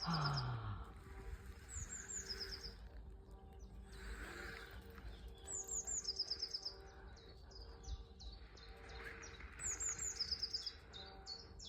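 Songbirds singing: short runs of quick, high, falling notes repeated every few seconds, with more scattered chirps toward the end, over a faint steady outdoor background.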